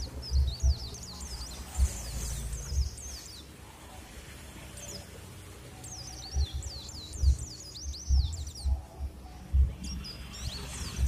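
Small birds chirping in quick, high twittering phrases, in three bursts, over irregular low thumps.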